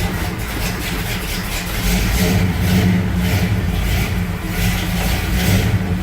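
1970 Ford F-250's engine running steadily moments after a cold start, fitted with a Pertronix electronic ignition that the owner credits for the quick cold start.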